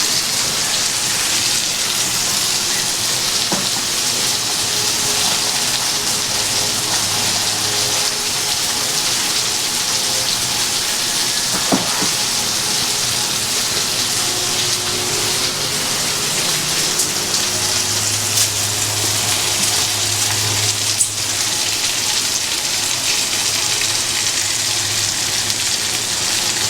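Chicken and pork sizzling steadily as they fry in a pan with butter, onions and garlic, with a couple of faint knocks.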